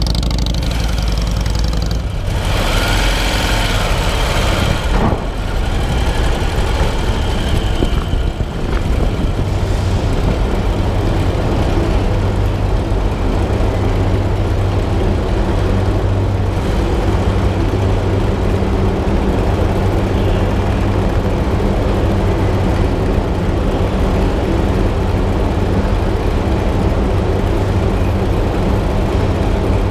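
Engine running steadily with a low, even hum, with a louder burst of noise about two to five seconds in.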